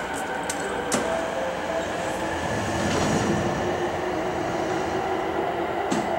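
Electric trains standing at a station platform, their onboard equipment humming steadily with a few held tones that shift in pitch, and a few sharp clicks near the start and again near the end.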